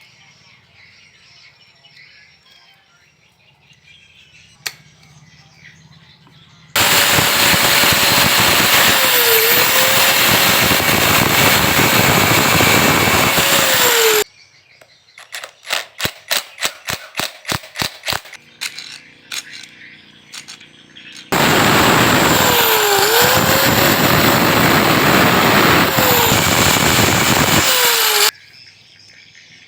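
A power tool runs in two long loud spells, its pitch dipping briefly now and then under load. Between them comes a quick run of about a dozen sharp, hammer-like strikes.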